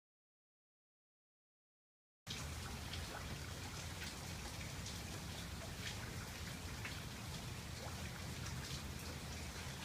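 Dead silence for about two seconds, then steady rain with scattered drops tapping.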